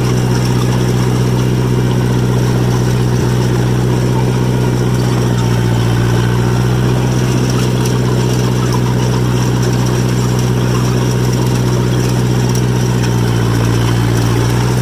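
John Deere 1010 crawler's engine running steadily while the machine drives along in third gear, its note shifting slightly near the end.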